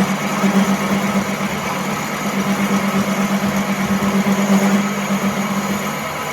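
A workshop machine running steadily, with a constant low hum over a rough mechanical noise; the hum fades near the end.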